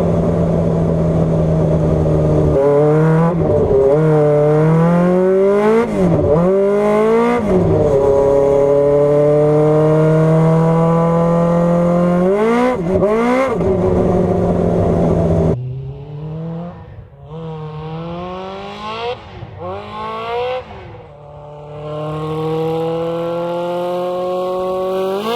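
Kawasaki ZZR1100 inline-four motorcycle engine driving a small car, revving up and down repeatedly as it accelerates and shifts, with one long steady climb in revs. About fifteen seconds in it suddenly becomes quieter, and the revving goes on.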